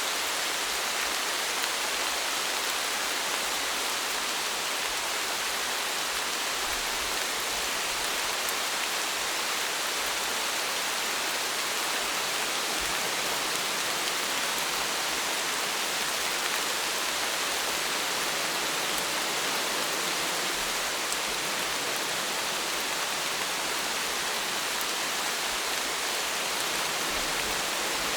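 Steady rain falling, a dense even hiss with faint patter of individual drops.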